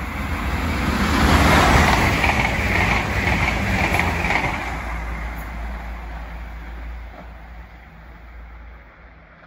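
Irish Rail InterCity diesel railcar passing through the station at speed without stopping. Its rumble and wheel-on-rail noise swell to a peak about two seconds in, then fade away steadily as it recedes.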